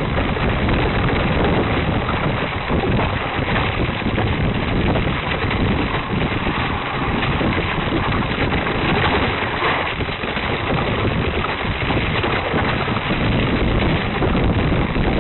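Wind buffeting the microphone, with bicycle tyres rumbling and rattling over rough ground during a ride down a steep slope. It is a loud, steady rush with uneven small knocks throughout.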